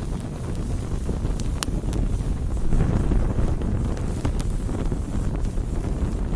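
Wood campfire burning: a steady low rumble of flames and air, swelling slightly about halfway, with scattered sharp crackles and pops from the burning wood.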